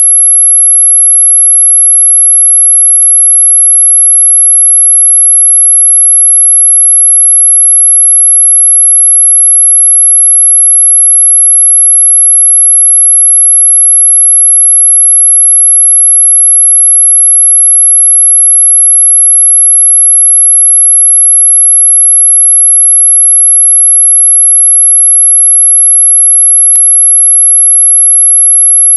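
Continuous, loud, very high-pitched pure electronic tone at about 11 kHz, held steady without change. It is a synthesized sine tone played as a mosquito-repellent sound. Two faint clicks break in, a few seconds in and near the end.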